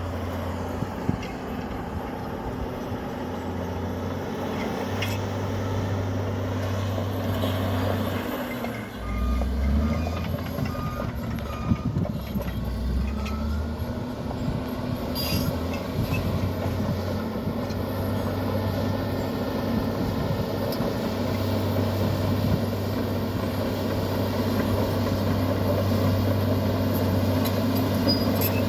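Komatsu bulldozer's diesel engine running steadily. Its note drops lower for a few seconds about nine seconds in, then comes back up, with a few short knocks along the way.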